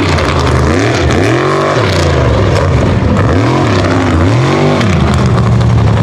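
Unlimited-class mega truck engine revving up and down several times in quick swells, then holding a steady pitch near the end.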